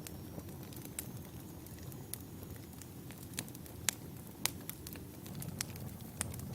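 Wood fire burning: a steady low rumble of the flames with scattered sharp crackles and pops, the loudest two about halfway through.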